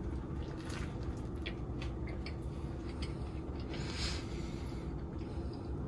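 A person biting and chewing food, a few faint crunchy clicks in the first couple of seconds and a short hiss about four seconds in, over a steady low hum.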